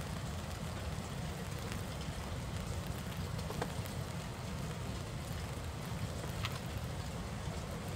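Steady rain with strong wind: a constant low rumble under an even hiss of rain, with a few separate drops ticking now and then.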